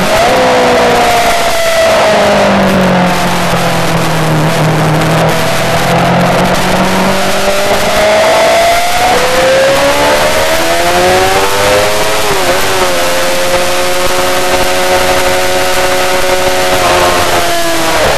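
Yamaha R6 inline-four sport bike engine running hard on track, its pitch climbing under acceleration and dropping sharply at a few gear changes, about halfway through and again near the end.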